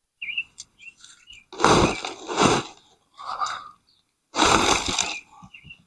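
Scraping and crunching of a nursery pot and soil as a potted tree's root ball is worked out of it. There are two long loud scrapes with smaller rustles between them.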